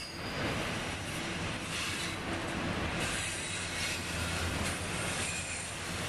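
Double-stack intermodal container train passing at speed: a steady rumble of the well cars' steel wheels running over the rails.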